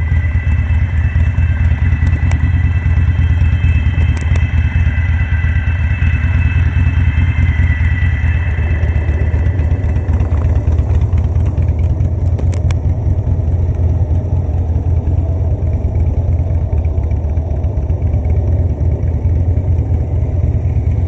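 Motorcycle engine running steadily, with a faint high whine over it that fades out about halfway through.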